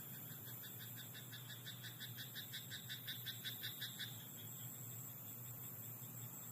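Frog croaking in a rapid run of short pulsed notes, about six a second, growing louder and then stopping about four seconds in, over a steady faint background hiss and hum.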